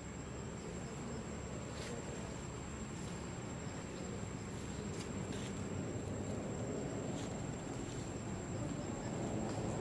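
Outdoor ambience: a steady high insect whine over a low, even rumble, with a few faint clicks.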